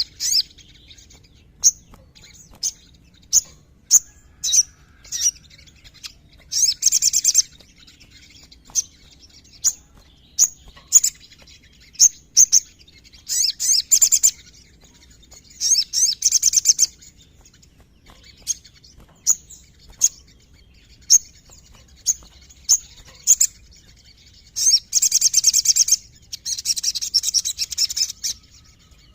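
Sogon (a sunbird) singing: loud, sharp high chips repeated every half second or so, broken several times by rapid trilled runs about a second long.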